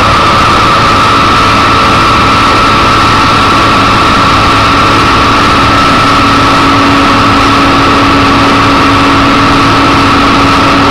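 Sesame drying centrifuge running at speed: a loud, even mechanical rush with a steady high whine, joined by a fainter low hum about halfway through.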